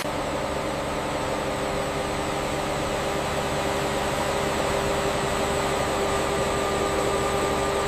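Steady mechanical hum with a few constant tones over a noisy hiss, growing slightly louder and then cutting off suddenly at the end.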